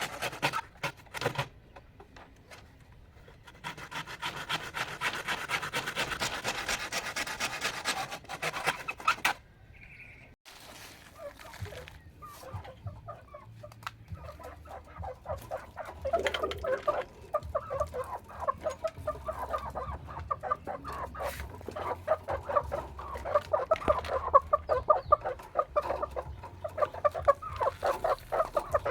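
Chickens clucking on and off, most steadily through the second half, with a few sharp knocks near the start.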